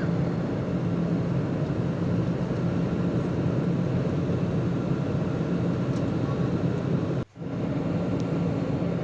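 Airliner jet engine noise heard inside the passenger cabin in cruise: a steady rushing drone with a low hum. It drops out for a moment about seven seconds in.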